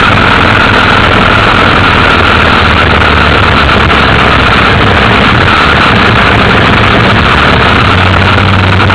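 Motorcycle engine running steadily while riding, mixed with a steady rushing noise; loud and unchanging throughout.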